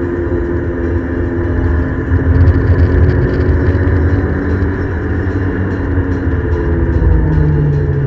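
Ford Escort XR3i's 1.8-litre 16-valve four-cylinder engine running hard, heard from inside the cabin over road noise. Its pitch eases down in the second half as the car comes off the straight for a corner.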